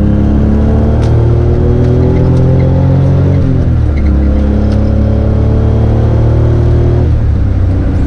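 A Suzuki Cappuccino's small turbocharged three-cylinder engine pulls the car up through the gears. The pitch rises steadily, drops at a gear change about three and a half seconds in, then climbs again until it falls away near the end.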